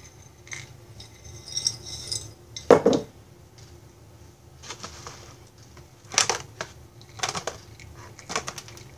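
Dry, brittle dehydrated broccoli pieces rattling and clattering as they are scooped with a measuring cup and poured into a mylar bag, with light clinks of the cup. One louder clatter comes about three seconds in, and a run of them comes later.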